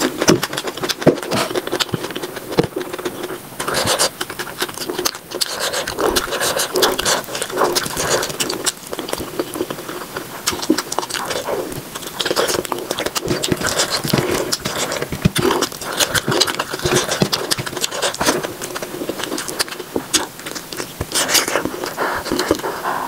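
Close-miked mouth sounds of a person eating rice and curry by hand: rapid chewing, lip smacks and wet clicks, played back sped up to three times normal speed.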